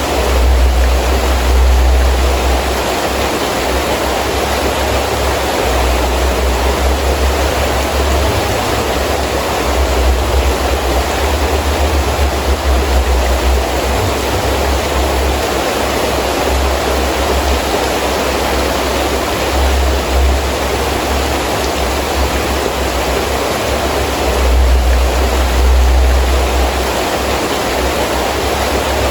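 Heavy rain falling steadily in the wind, with a low wind rumble that swells and eases every few seconds.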